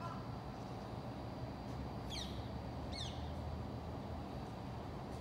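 A bird gives two short, high calls about a second apart, each sliding quickly down in pitch, over a steady low rumble of distant traffic.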